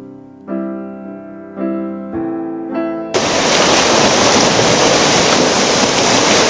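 A few piano chords struck one after another, then about three seconds in a loud, steady rush of whitewater rapids cuts in suddenly and drowns them out.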